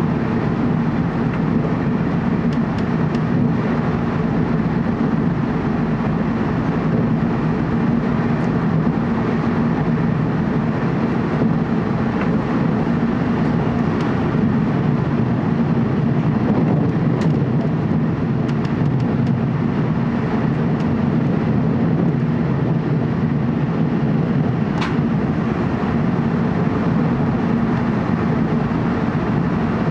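Steady running noise of a TEMU2000 Puyuma Express electric multiple unit heard inside the passenger car while it travels through a tunnel: an even, low rumble of wheels and traction equipment, with a few faint clicks.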